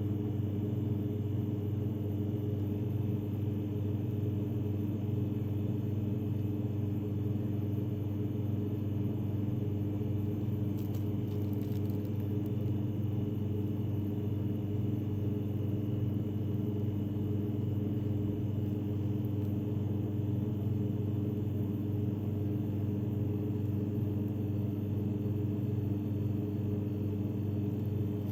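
A steady low mechanical hum that does not change, with a faint brief rustle about eleven seconds in.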